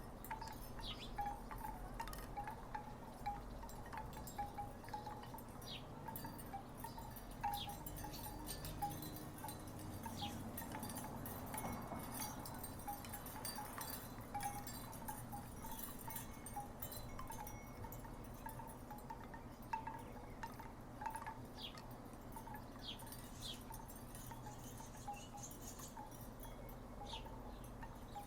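Wooden tiki wind chimes knocking together in the breeze: irregular clusters of short clacking notes at much the same pitch, over a steady low background.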